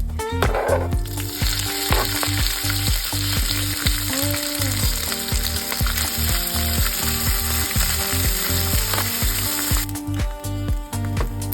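Food sizzling in a hot frying pan, starting about a second in and stopping shortly before the end, over background music with a steady beat.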